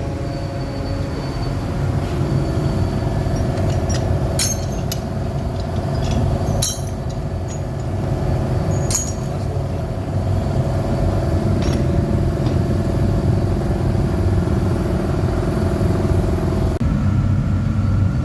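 Steady mechanical hum and low rumble with scattered metallic clinks. The hum changes pitch abruptly near the end.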